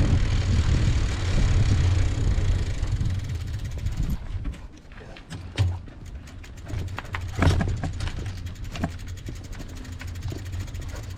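Wind and road rumble from riding a bicycle, easing off after about four seconds. Then the freewheel ratchet ticks steadily as the bike coasts, with a couple of sharper knocks in the middle.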